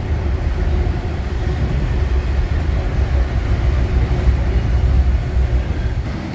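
Train passing close by, a loud steady low rumble that swells a little midway and eases near the end.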